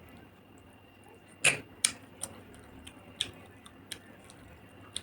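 Eating sounds: a handful of short sharp clicks and smacks spaced irregularly, the loudest about a second and a half in.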